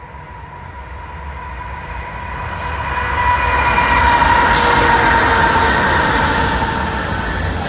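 CN train approaching on the Halton subdivision main line, its rumble growing steadily louder and peaking about four to five seconds in, with a thin, steady high-pitched ring over the noise.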